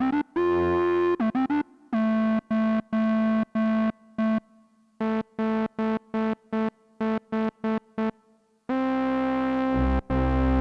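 Behringer Odyssey analog synthesizer played one note at a time: short, sharply cut notes in a quick repeating pattern, with a sliding note about half a second in, a short pause around four to five seconds, and a long held note near the end.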